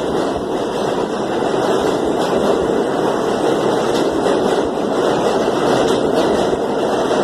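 R32 subway train running as it pulls out of the station, a steady rumble of wheels on rail that grows a little louder.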